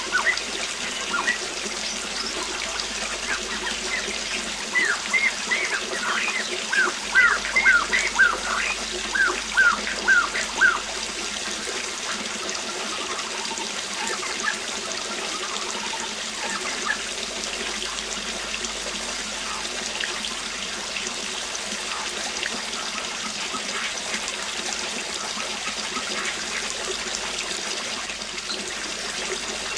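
Waterfall running steadily, with a bird singing over it: a quick series of short chirps from about four to eleven seconds in, then only scattered calls.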